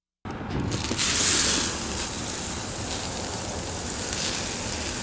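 A steady rushing noise that cuts in suddenly just after the start and holds even throughout.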